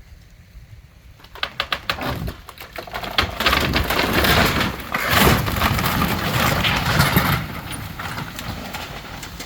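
Old wooden shed being pulled down: a run of sharp cracks about a second in, then several seconds of loud cracking and crashing as boards and framing give way, easing off near the end.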